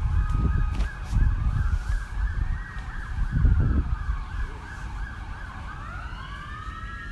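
Emergency vehicle sirens sounding together: a rapid warbling yelp over a slow rising and falling wail, with another wail climbing in near the end. Bursts of low rumble come through in the first four seconds.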